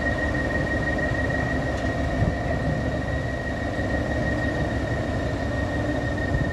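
Kirovets K-700A tractor's YaMZ V8 diesel running steadily under way, a continuous low rumble with a steady high-pitched whine over it.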